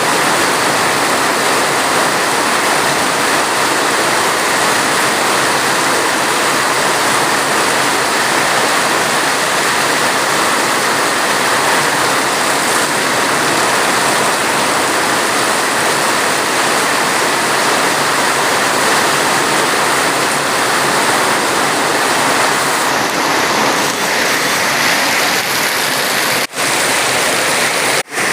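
Steady heavy rain, a dense even hiss of water with no single drops standing out, broken by two brief dropouts near the end.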